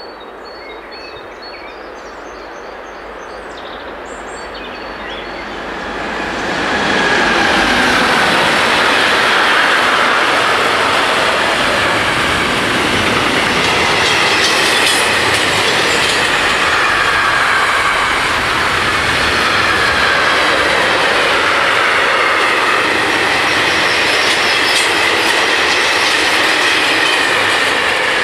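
DB freight train of tank wagons passing at close range. The rumble builds over the first six seconds or so, then holds steady and loud, with wheels squealing and clickety-clack over the rails.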